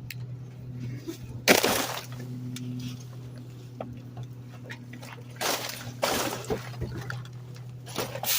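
Trash crashing into a garbage truck's hopper with glass breaking and clinking, in several loud dumps, the loudest about a second and a half in. The truck's engine hums steadily underneath.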